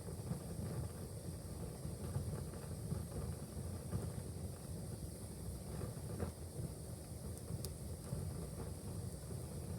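Wood fire burning in a fireplace: a steady low rumble of the flames with scattered crackles, and one sharp pop about three-quarters of the way through.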